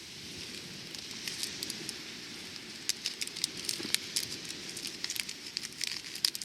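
Campfire crackling: a steady low rush with many irregular sharp pops and snaps from about a second in.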